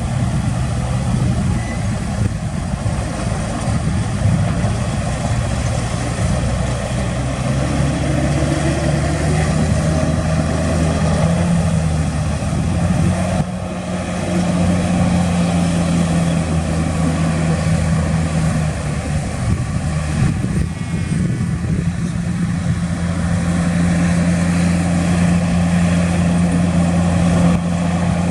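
Heavy diesel engine of earth-moving machinery running under load, its pitch stepping up and down a few times.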